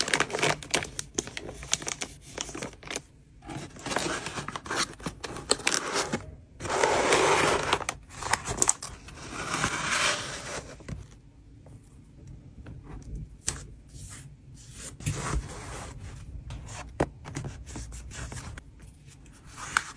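Hands packing trading cards: plastic sleeves and packaging rustling and scraping, with many small taps and clicks. There are two longer stretches of louder crinkling or tearing about seven and ten seconds in, then quieter handling with scattered clicks.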